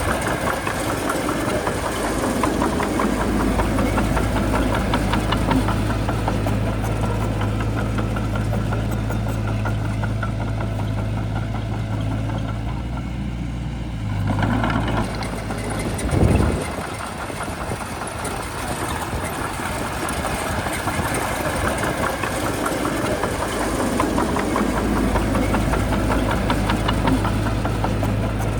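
Bulldozer diesel engine running steadily with a fine clatter over it. A little past halfway the engine eases off and there is one loud, short thump, then the engine picks up strongly again near the end.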